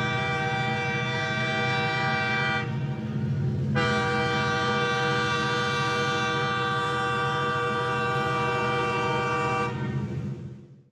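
Train horn sounding in two long steady blasts, the second about twice as long as the first, over the low rumble of a moving train, fading out near the end.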